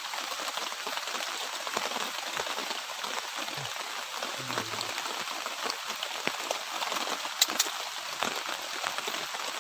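Light drizzle falling, a steady hiss of rain with many small drop ticks, and two sharper clicks about three quarters of the way through.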